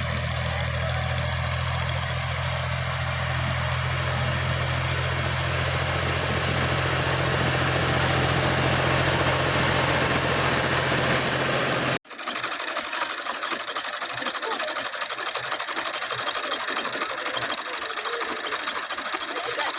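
Tractor engine running steadily with a deep, even hum that grows a little louder toward the middle. It cuts off abruptly about twelve seconds in, leaving a rougher, thinner rattling noise without the deep hum.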